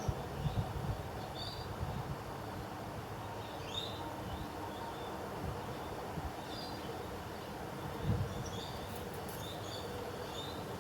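Outdoor ambience: short bird chirps scattered through, over a steady low background rumble with an occasional low thump, such as one about eight seconds in.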